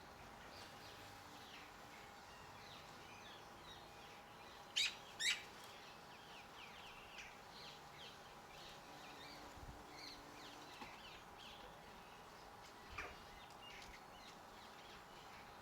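Garden birds chirping, many short faint calls throughout. Two louder, sharp sounds come close together about five seconds in, and another near the end. A faint steady hum runs underneath.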